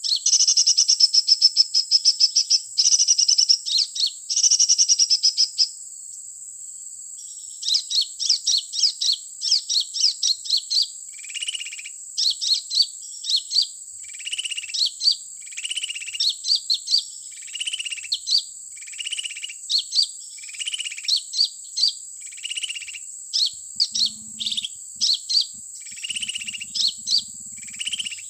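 Small songbird calls played as a trapping lure, 'colibri' (sunbird) calls: rapid high trills for about six seconds, then after a short pause a steady run of sharp high chirps alternating with lower notes. A thin steady high tone runs under them throughout.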